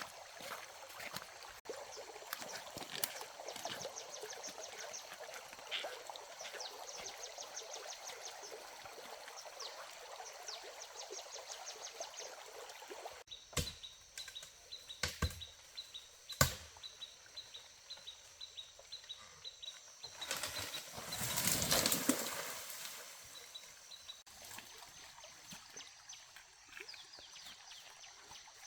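Rural outdoor ambience: a steady background hiss with repeated trains of rapid, high-pitched chirps, a few sharp knocks, and a brief swell of rushing noise about two-thirds of the way through.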